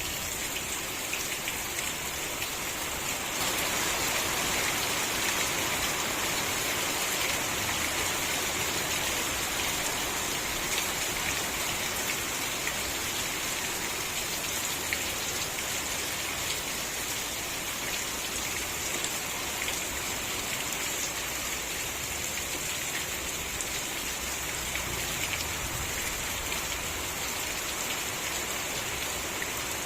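Steady rain falling, with fine scattered drop ticks through it; it gets slightly heavier about three seconds in and holds there.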